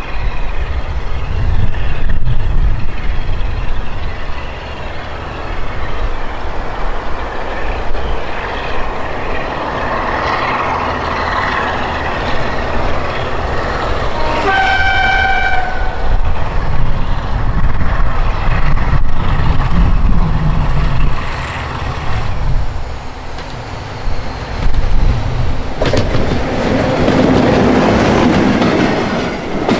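Diesel locomotive working along the line, engine running with wheel noise on the rails, sounding its horn once in the middle on a single steady note for about a second and a half.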